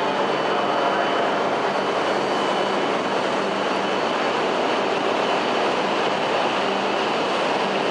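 Coupled E5 and E6 series Shinkansen train running through the station: a steady rushing rumble with a constant low hum.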